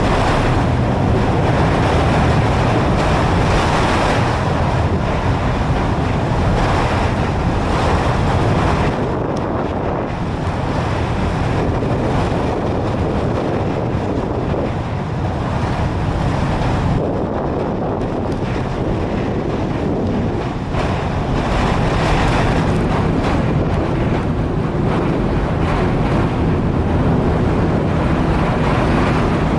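Wind buffeting the microphone over water, with the steady low drone of the ferry Xin Guang's engines as it manoeuvres into its berth. The wind rises and falls in gusts.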